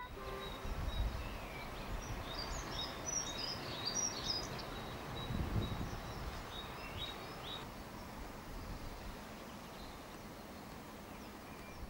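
Small birds chirping in quick, high twitters over a low outdoor rumble; the chirping dies away after about eight seconds.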